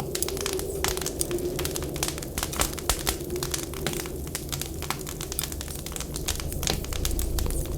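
Wood fire in a stove crackling, with many sharp irregular pops, over a low wavering whistle of wind. A low rumble swells near the end.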